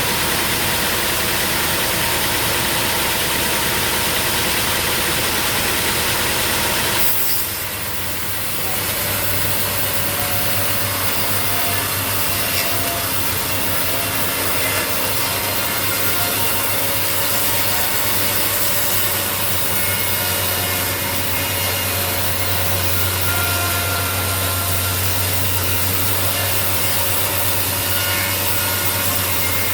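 Sawmill saw cutting through a log, with the mill's engine running steadily underneath; the sound dips and shifts briefly about seven seconds in.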